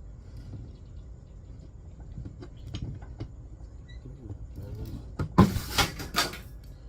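Chainsaw mill attachment parts being handled and fitted: a few light clicks, then a quick run of louder knocks and rattles about five seconds in.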